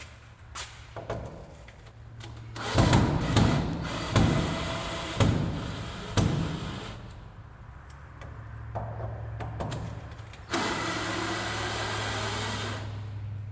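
An electric drill-driver runs in short whirring bursts while backing screws out of the guitar, with knocks and handling clatter in between. Near the end it runs steadily for about two seconds.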